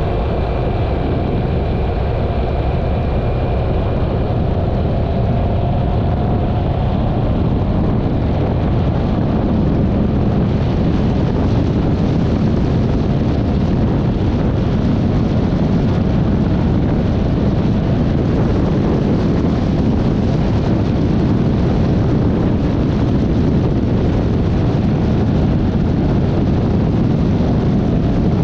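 Yamaha XMAX 300 scooter under way: its single-cylinder engine running beneath a steady rush of wind and road noise on the microphone. A faint whine rises slightly over the first several seconds, then fades into the steady rush.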